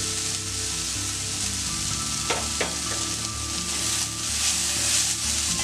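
Chopped onions and tomatoes sizzling steadily in hot oil in a kadai as a slotted spoon stirs in the powdered spices, with two sharp clicks of the spoon against the pan about two and a half seconds in.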